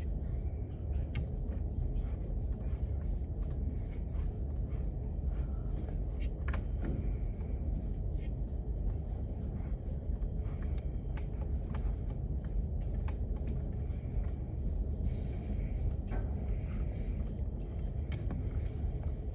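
Library room tone: a steady low rumble with scattered small clicks and taps throughout, and faint indistinct voices in the second half.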